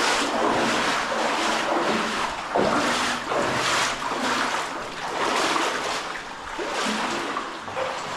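Loud splashing, rushing water in a cave stream, surging unevenly about once a second.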